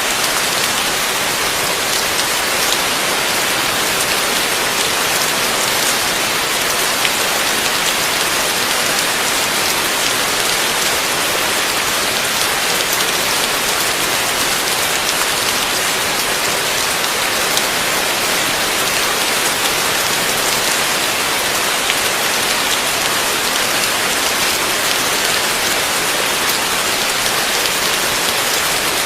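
Heavy rain falling steadily, a dense even hiss of drops with fine crackle.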